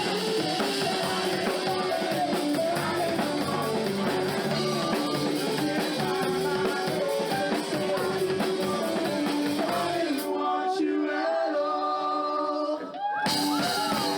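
Live rock band playing with singing, drums and guitar. About ten seconds in, the drums and cymbals drop out for about three seconds, leaving held notes, before the full band comes back in.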